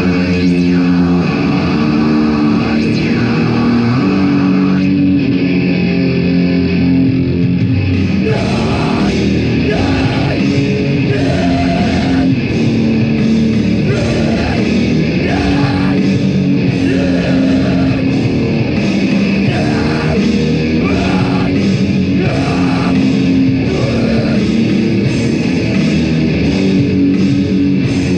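A live heavy band playing loud, with distorted electric guitars riffing on sustained low chords. Crashing cymbals come in about eight seconds in and carry on to the end.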